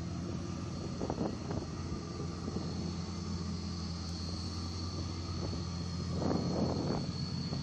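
The 5.7-litre LS1 V8 of a 2000 Camaro Z28 idling through a catless SLP Loudmouth II exhaust, a steady low drone. There are brief rougher patches about a second in and again about six seconds in.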